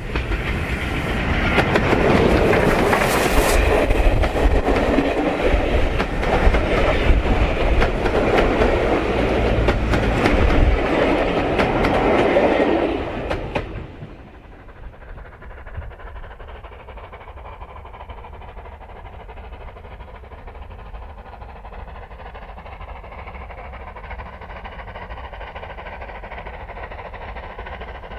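A heritage-railway train passing close by, its wheels clacking rapidly over the rail joints. About halfway through the sound drops suddenly to a quieter, steady rumble.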